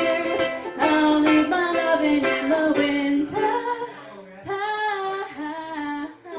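A woman singing the closing line of a folk song over strummed strings; the strumming stops about three seconds in and she holds the last notes unaccompanied.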